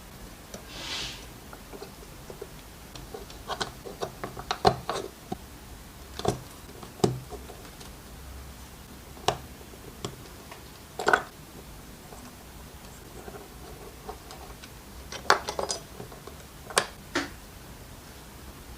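Scattered clicks, taps and knocks of small hard parts and tools being handled and set down on a work surface, in loose clusters with pauses between. A short hiss about a second in.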